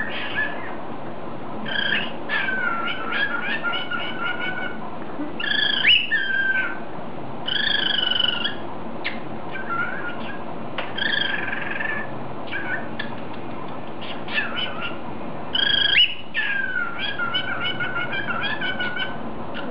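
Pet cockatiel whistling: a run of short warbling whistle phrases with pitch glides and quick trills, broken by brief pauses, over a steady low hiss.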